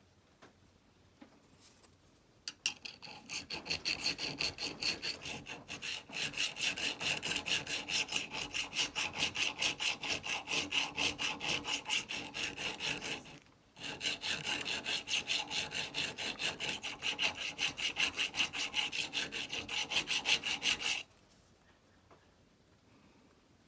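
A rusty antique steel chisel being scrubbed back and forth against an abrasive by hand to clean off the rust, with steady scraping strokes about three a second. The strokes come in two runs, with a short pause about thirteen seconds in.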